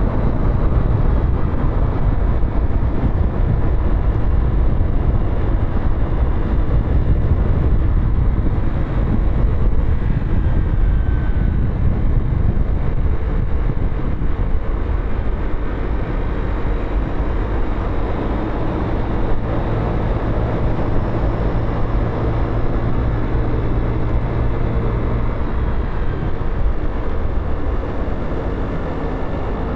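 Motorcycle engine running under the rider, mixed with a heavy low rumble of wind and road noise on the microphone.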